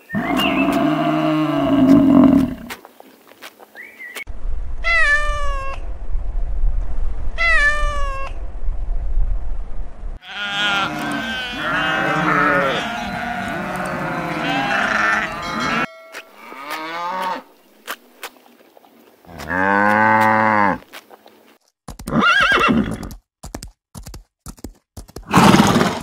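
A series of farm animal calls, one clip after another: a water buffalo's low call at the start, two falling calls a few seconds later, then several goats bleating over each other, a single long call, and a short call near the end.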